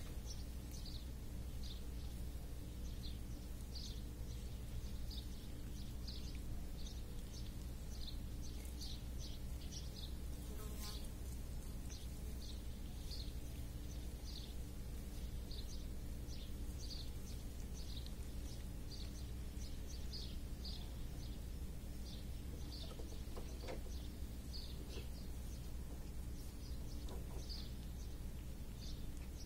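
A small bird chirping over and over, short high chirps about twice a second, over a steady low background rumble. A single click comes about eleven seconds in.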